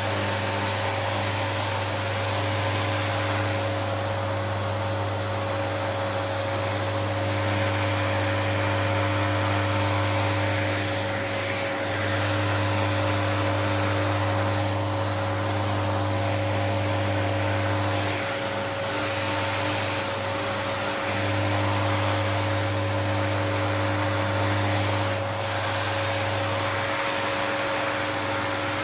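A small electric motor running steadily with a rushing hiss and a low hum; the hum dips briefly a few times.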